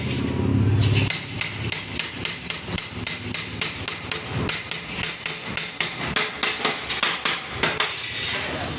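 Hammer blows on metal, quick and uneven at several a second, each with a high metallic ring, as parts are knocked into place while a truck gearbox is being assembled. A low rumble stops about a second in.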